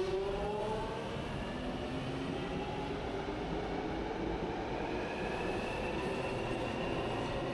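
Electric multiple-unit train's traction motors whining, several tones rising slowly in pitch as it accelerates, over a steady rumble.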